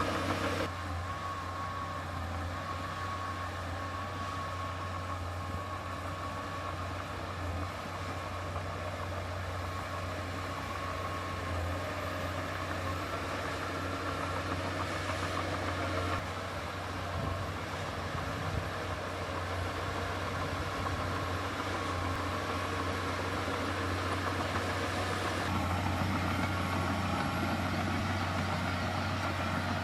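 Heavy diesel engine of earthmoving machinery running steadily with a strong low hum, the sound shifting abruptly a few times.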